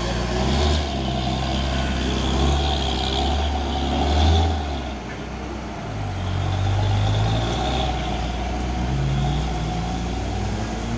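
Heavy diesel truck engines running under load up a steep climb, steady and loud. The engine note drops about five seconds in as another engine comes up.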